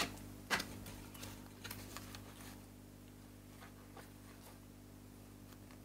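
Tarot cards handled and laid on a wooden table: a few soft taps and slides in the first couple of seconds, then quiet room tone with a faint steady low hum.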